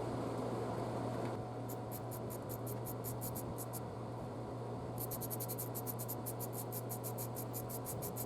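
Ratchet on a 7/32-inch socket clicking in regular runs as the screw on the intake hose's clamp collar is loosened: about five clicks a second at first, then a pause, then a faster run. A steady low hum sits underneath.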